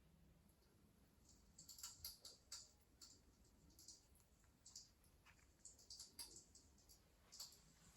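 Faint, irregular crackling and popping of burning coals: the built-in sound imitation of an electric fireplace painting, sharp little snaps at uneven intervals.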